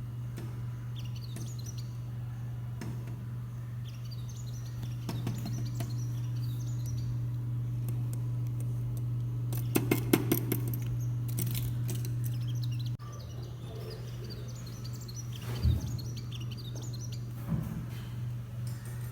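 Small birds chirping over a steady low hum, with a run of sharp clicks about halfway through and a couple of thumps near the end.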